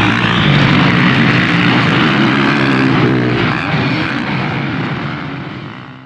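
Motocross bike engine running at the track, fading out near the end.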